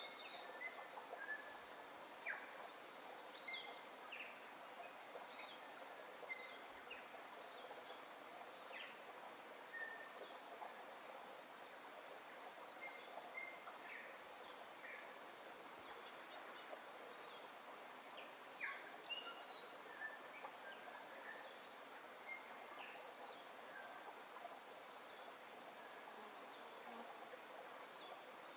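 Birds chirping and calling: many short, high chirps and brief pitch sweeps scattered throughout, over a faint steady hiss of outdoor background.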